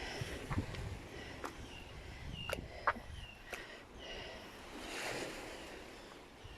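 Footsteps over beach stones: scattered sharp clicks of pebbles knocking underfoot, over a soft wash of surf that swells about five seconds in, with a few short high chirps.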